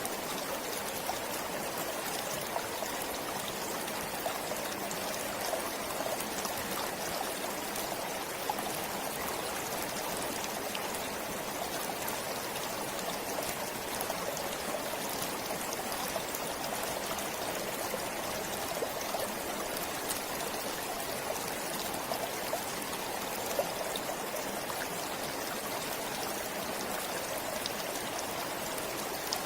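Forest stream flowing steadily, a constant rush of water with occasional small splashes.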